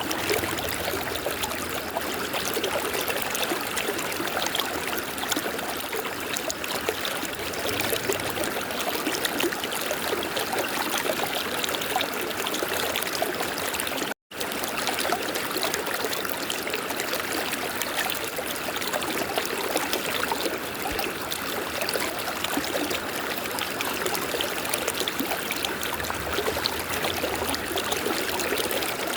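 River water flowing with a steady rushing sound. It cuts out completely for a split second about halfway through.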